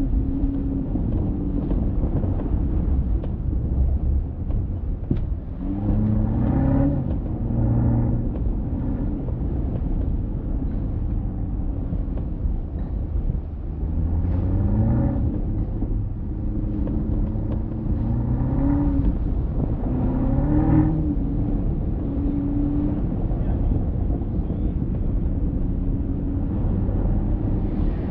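Alpina XB7's twin-turbo V8 accelerating several times. Each time its pitch rises, drops back at an upshift and rises again, and it settles into a steady drone between pulls. A low rumble of road and tyre noise lies underneath throughout.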